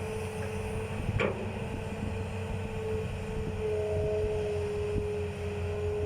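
Hitachi ZX200-5G excavator's diesel engine running under load, with a steady hydraulic whine. There is one short clank about a second in.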